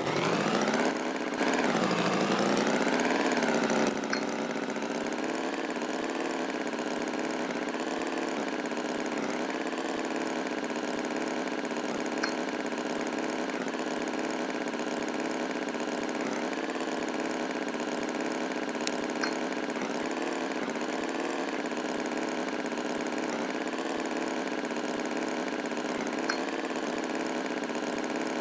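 An engine running: louder for the first few seconds with its pitch swinging up and down, then settling into a steady, even run.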